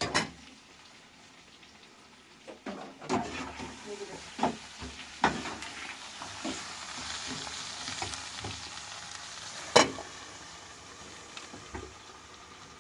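Food sizzling as it fries in a pan, with the knocks and scrapes of a utensil stirring against it. The sizzle grows louder midway, and a sharp clack sounds near the end.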